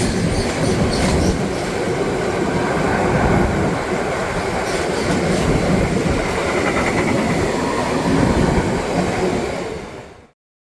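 Freight train passing, its wagon wheels rumbling and clattering over the rails. The sound falls away to silence near the end.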